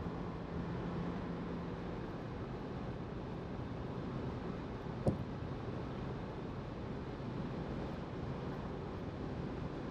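Steady in-cabin driving noise from a Subaru Outback 2.5i: the flat-four engine's low hum under road and wind noise, holding an even pitch. A single sharp click comes about five seconds in.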